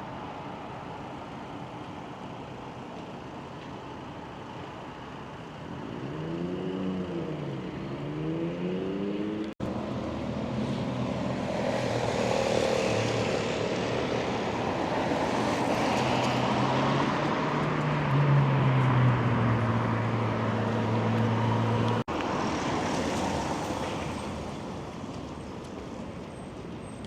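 Road traffic: motor vehicles driving past, with a loud stretch in the middle where an engine runs close by, steady and low. The sound drops out for an instant twice.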